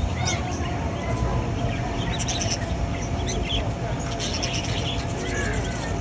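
A flock of budgerigars chirping and chattering, many short high chirps overlapping.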